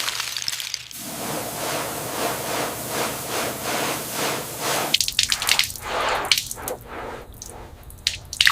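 Water dripping and splashing: a regular pulse about twice a second, then irregular sharp drips and splashes in the second half.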